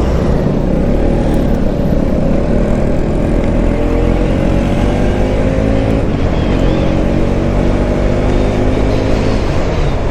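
Motorcycle engine accelerating hard, its pitch climbing steadily, dropping at a gear change about six seconds in, then climbing again.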